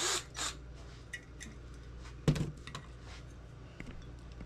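Small clicks and taps of a drill bit and cordless drill being handled, with one sharp knock a little over two seconds in, after a brief rustle at the start.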